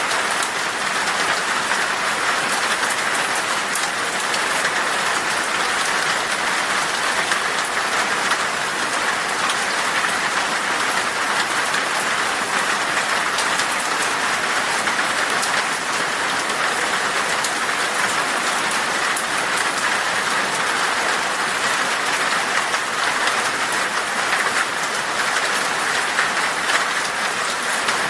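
Heavy rain falling steadily on glass: a dense, even hiss with fine ticks of single drops.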